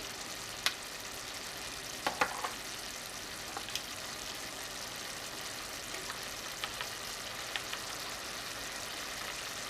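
Diced vegetables sautéing in butter in a saucepan: a steady sizzle, with a few light clicks scattered through it.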